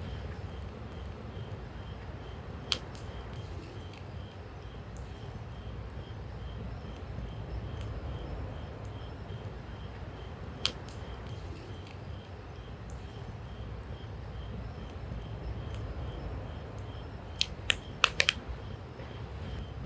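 Wood campfire crackling: a few sharp pops, one about three seconds in, one about eleven seconds in and a quick cluster near the end, over a steady low rumble.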